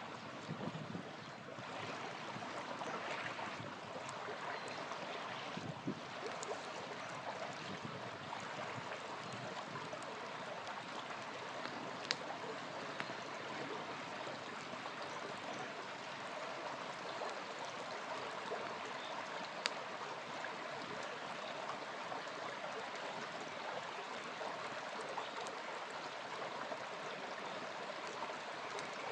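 A small river flowing steadily, with a few sharp pops from a crackling campfire.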